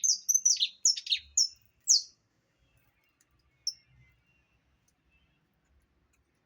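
Saffron finch singing: a run of quick, high chirping notes that stops about two seconds in, followed by a single short note a little later.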